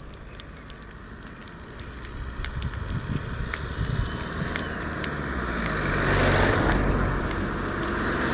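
A car approaching and passing close by on the road, its tyre and engine noise growing louder to a peak about six seconds in, then easing off as the next vehicle comes up. Footsteps tick along underneath.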